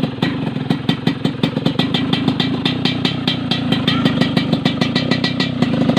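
Yamaha RX-King's two-stroke single-cylinder engine running steadily at low revs, its exhaust giving a rough, snoring note of rapid uneven pops.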